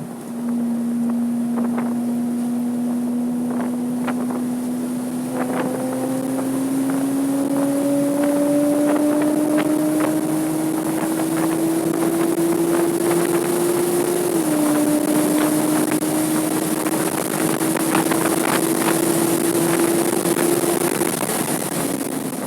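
Porsche 987.2 Cayman S's 3.4-litre flat-six under hard acceleration on track, its note climbing slowly, with one upshift about two-thirds of the way through and the revs falling away near the end. Wind rushes past throughout, with scattered short knocks.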